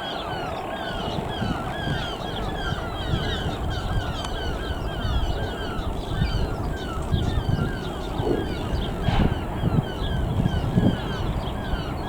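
Birds calling over and over in short repeated calls, about two a second, over a low rumbling noise.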